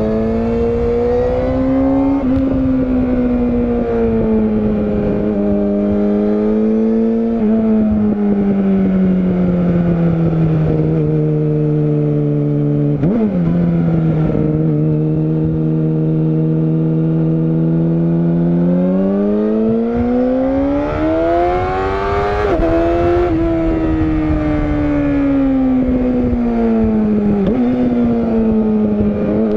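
Yamaha YZF-R6 (RJ27) inline-four sport-bike engine under way, the revs rising and falling through bends with quick gear changes: a long climb in pitch just past the middle ends in a sharp drop at an upshift. A steady rush of wind and road noise sits underneath.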